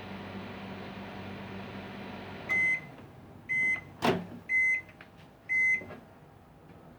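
Microwave oven running with a steady hum, its magnetron antenna cap newly replaced; the cycle ends about two and a half seconds in and the oven beeps four times, about once a second. A sharp click comes between the second and third beeps.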